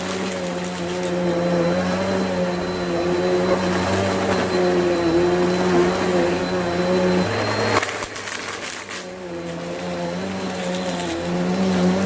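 Bissell vacuum cleaner running with a steady motor hum and whine. About eight seconds in, the sound briefly drops and its pitch shifts, then the steady running returns.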